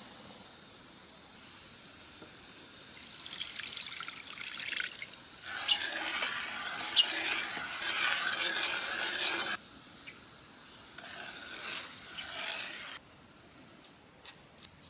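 Water splashing and sloshing in several bursts, the longest and loudest from about a third of the way in to past the middle. A steady high insect drone sounds behind it and stops near the end.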